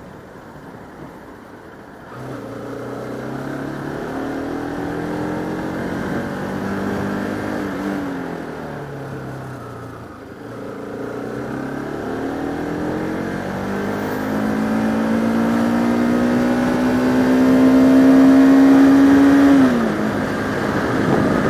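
Single-cylinder engine of a Bajaj Pulsar RS200 motorcycle under way. The engine note climbs from about two seconds in, eases back around eight seconds and dips near ten. It then rises steadily under throttle and falls sharply near the end.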